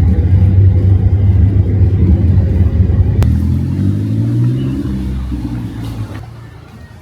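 A motor vehicle's engine passing close by: a loud low rumble that comes in suddenly and fades away over the last two seconds or so.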